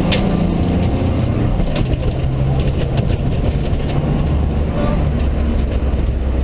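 Mitsubishi Colt rally car's engine running hard, heard inside the cabin at stage speed; its pitch shifts and drops lower about two thirds of the way through. A few sharp clicks sound over it.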